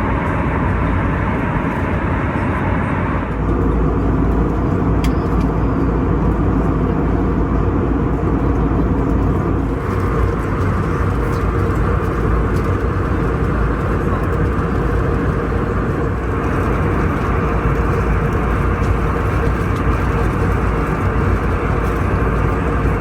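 Steady cabin noise inside an Airbus A321neo in flight: a constant roar of airflow and engine hum. It shifts in tone a few times, about 3, 10 and 16 seconds in.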